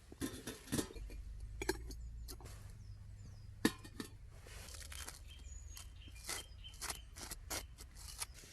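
A series of light, irregular clicks and knocks from small objects being handled, over a faint low rumble.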